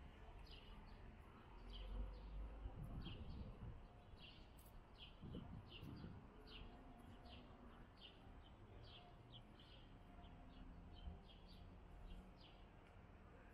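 A small bird chirping over and over, short sharp chirps about two a second, over a faint low background rumble that swells briefly about two seconds in.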